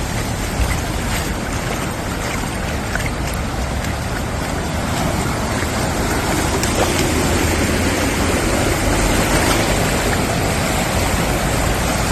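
Floodwater rushing in a steady, dense wash of noise with a few faint splashes and clicks, growing a little louder about halfway through.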